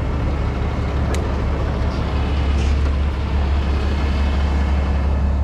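Heavy-duty rotator tow truck's diesel engine running steadily, a deep even hum. A single sharp click sounds about a second in.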